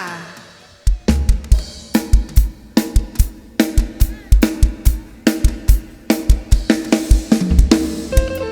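Live band kicking off a song: a drum kit comes in about a second in and plays a steady beat of kick drum, snare and cymbals over held bass and keyboard notes.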